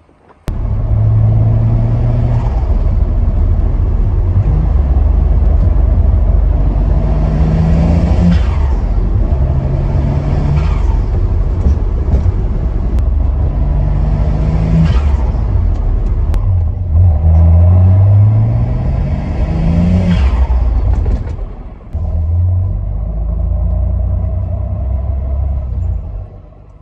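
BMW 335i's N54 twin-turbo straight-six accelerating hard in several pulls, its pitch rising through each one. Each throttle lift brings a brief fluttering chatter: turbo compressor surge, because the blow-off valve is blocked off.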